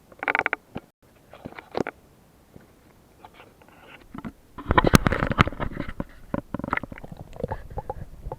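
Water splashing and knocking as a small boat is paddled downriver. Short scattered splashes come first, then a busier stretch of splashes and clicks about five seconds in.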